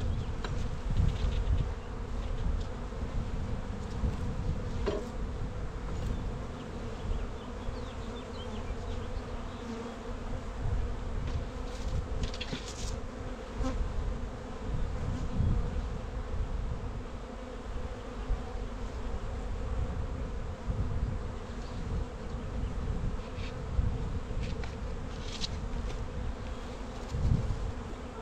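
Honeybees buzzing steadily in a swarm around an opened hive, with gusts of wind rumbling on the microphone and a few faint clicks.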